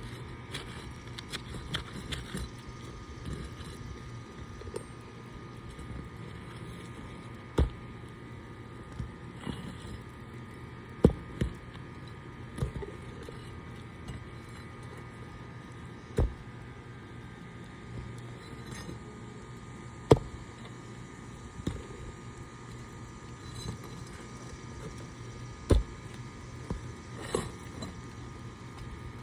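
Scattered sharp knocks and clicks, a few seconds apart, from work on an asphalt shingle roof, over a steady low hum.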